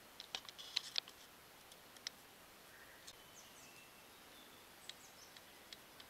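Faint chirps and sharp high ticks of small forest birds, a quick cluster in the first second and a few short downward-gliding calls again around the fifth second, over a light background hiss.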